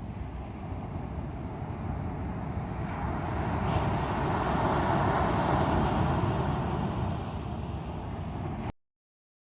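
Strong sea waves breaking on the shore: steady surf, with one wave building about three seconds in, crashing loudest around the middle, then easing off. The sound cuts out abruptly to silence near the end.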